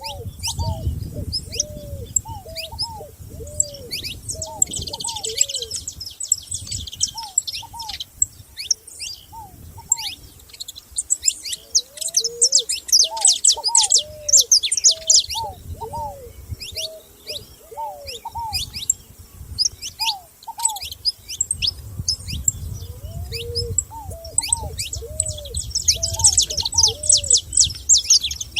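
Several wild songbirds singing together. Rapid high-pitched chirps and trills come in thick bursts, over a series of lower, short arched whistled notes repeated every second or so, with a low rumble underneath at times.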